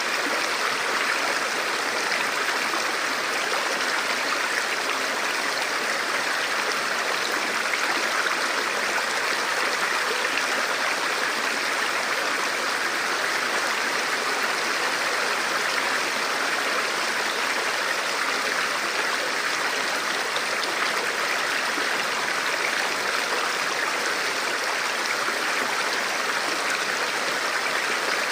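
Forest river flowing over stones: a steady rushing with fine splashing.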